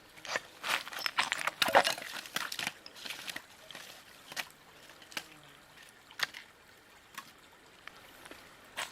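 Liquid pouring and sloshing, heaviest in the first few seconds, followed by scattered light clicks and knocks.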